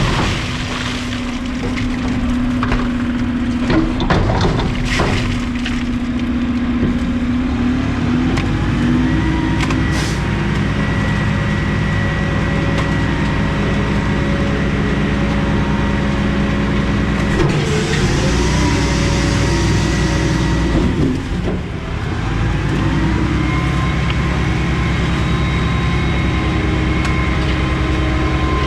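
Garbage truck engine revving up to drive the hydraulic packer, with a whine that rises in pitch as the revs climb. There are a few knocks and clatters in the first seconds and a hiss about two-thirds through. The revs dip briefly, then climb again.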